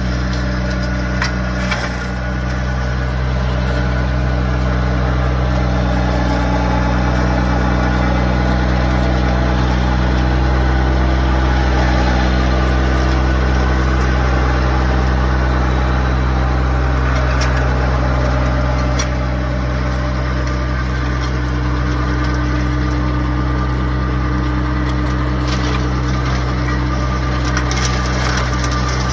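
A 25-horsepower tractor engine running steadily under load, driving a 61-inch flail mower through thick brush, with a few sharp clicks over the steady drone.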